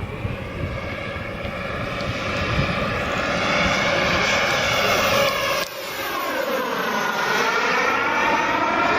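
Aircraft engine noise as a plane flies over, its whooshing tone sweeping down and back up as it passes. A low wind rumble on the microphone cuts off suddenly partway through.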